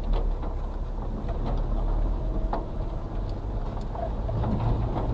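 Suzuki Carry kei truck's 660cc three-cylinder engine running under load, heard inside the cab as it crawls over rough forest ground, with scattered knocks and rattles from the truck bumping. The engine gets louder about four seconds in.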